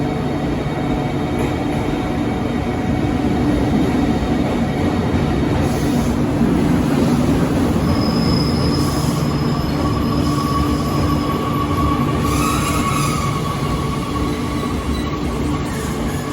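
JR Kyushu 883 series electric train running at speed, heard from on board: a steady rumble of wheels and running gear. A thin whine comes in about halfway through.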